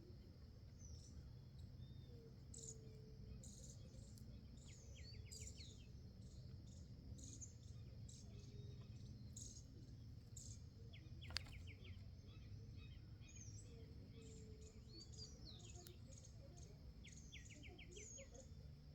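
Faint bird calls: scattered high chirps and, every few seconds, a short run of rapid repeated notes, over a steady low background hum. A single sharp click about eleven seconds in.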